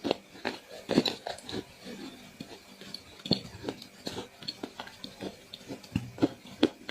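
Dry clay being crunched, sharp irregular crunches coming a few times a second.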